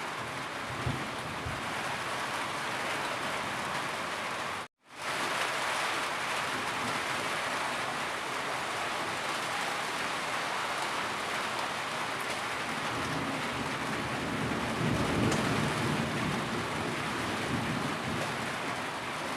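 Steady rain falling, an even hiss without thunder. It cuts out to silence for a split second about five seconds in, then resumes.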